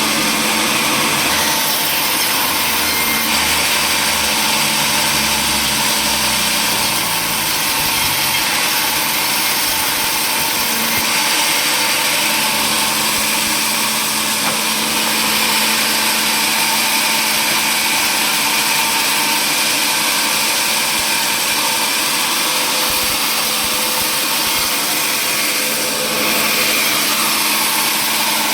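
Power saw running steadily, a loud, even machine noise with a constant hum, typical of a table saw working wood.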